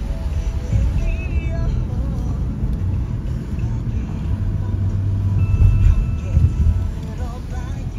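Low rumble of road and engine noise inside a moving car's cabin, swelling a little past the middle, with the car radio playing faintly underneath: music with snatches of a voice.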